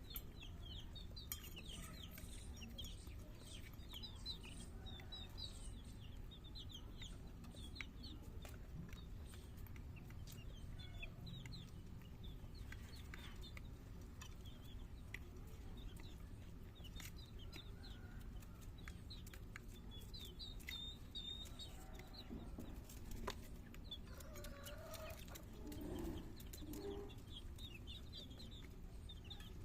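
Chickens clucking, with many short, high-pitched chirping calls and scattered sharp clicks. A lower run of clucks comes near the end.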